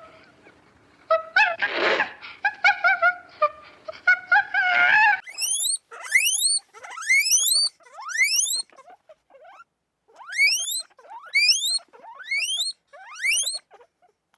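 An animal's high, squeaky calls. The first few seconds hold short repeated notes, then come a string of quick squeals, each rising sharply in pitch, about one or two a second.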